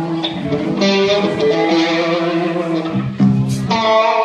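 Electric guitar played live through an amplifier: strummed chords left to ring, changing every second or so.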